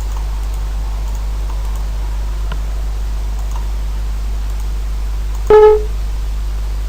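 Steady low electrical hum with a few faint clicks, then a single short computer alert tone about five and a half seconds in, as the software installer starts up.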